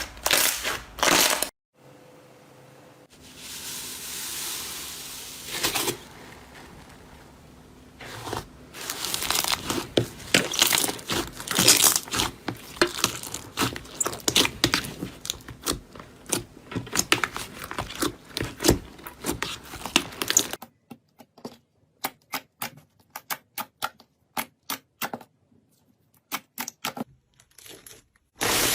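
Slime being squeezed, poked and stretched by hand, making crackling, popping and squishing sounds. Dense crackling fills the middle, then it thins to a slower run of separate clicks and pops near the end.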